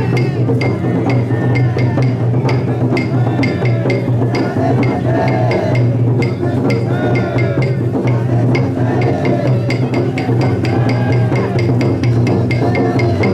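Taiko drum on a chousa drum float beaten in a steady rhythm, about two to three strokes a second, with the voices of the bearers chanting over it. A steady low drone runs underneath.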